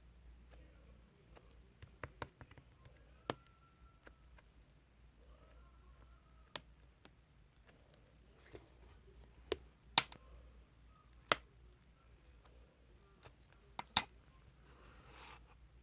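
Slime being pressed and poked by hand, giving sharp, irregular clicking pops a second or two apart, the loudest near the middle and near the end, with a brief soft rustle just before the end.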